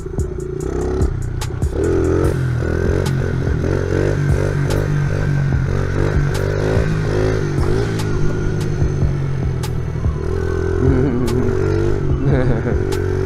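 Honda XR70R's small air-cooled four-stroke single-cylinder engine running as the pit bike is ridden, its pitch rising and falling with the throttle.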